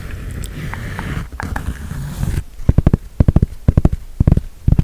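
Fingers tapping on a cap in quick, rapid flurries, starting about halfway in, after a stretch of low rustling handling.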